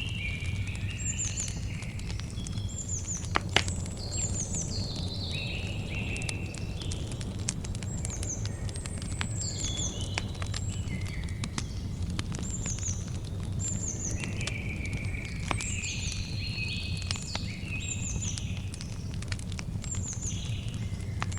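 Campfire crackling with scattered sharp pops, the loudest about three and a half seconds in, over a low steady rumble. Birds chirp and sing throughout, one short falling call repeating every second or two.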